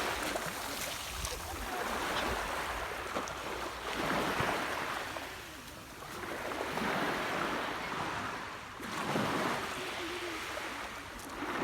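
Small sea waves washing onto the shore, a swell of noise rising and falling every two to three seconds.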